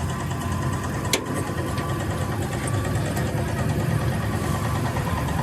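An engine idling steadily, with a sharp click about a second in.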